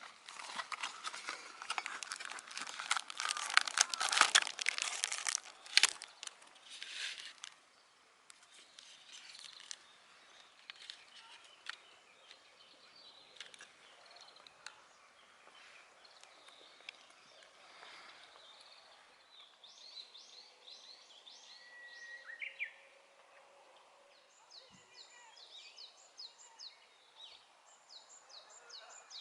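Crinkling, rustling handling noise for about the first six seconds, then quiet open-air ambience. In the second half a bird sings series of short, quickly repeated falling chirps.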